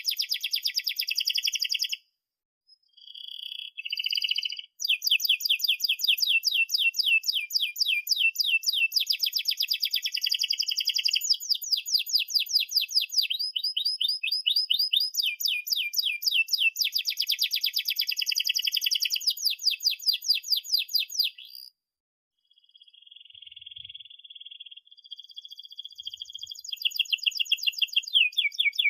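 Domestic canary singing long, fast rolling trills of rapidly repeated chirps, with short breaks about two seconds in and again near the three-quarter mark.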